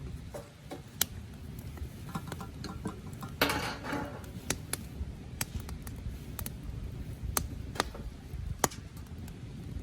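Wood fire burning in a metal pail can, crackling with sharp irregular pops over a steady low rumble, and a brief rushing burst about three and a half seconds in.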